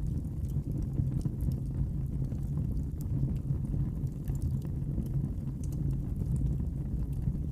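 Wood fire burning in a fireplace: a steady low rumble of flames with faint, scattered crackles and pops.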